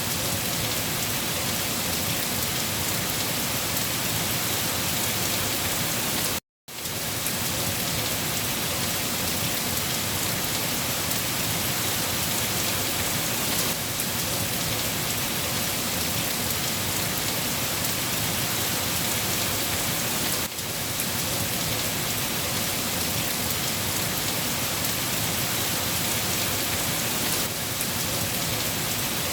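Steady, heavy rain falling and pattering on surfaces, an even dense hiss with no let-up. It cuts out to silence for a split second about six and a half seconds in, then resumes.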